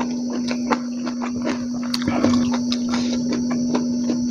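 Close-miked open-mouthed chewing and lip-smacking: a quick, irregular run of wet clicks and smacks, over a steady hum.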